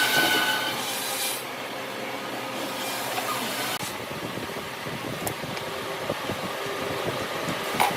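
Woodworking tool noise: a whining tool runs and stops about a second in, then steady rough rubbing of wood follows, ending with a sharp click.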